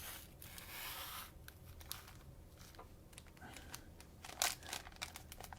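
Faint rubbing and rustling of trading-card cello packs being handled, with a few small clicks and a soft knock about four and a half seconds in.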